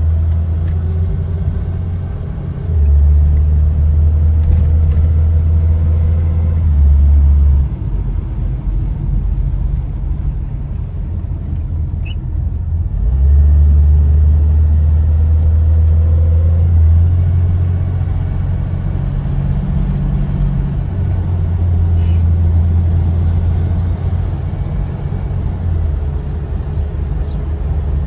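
Interior sound of a 1971 Opel Commodore A 2800 GS on the move: the 2.8-litre straight-six with automatic gearbox drones low under road and tyre noise. The drone swells in several stretches of a few seconds and drops back abruptly once, about seven seconds in.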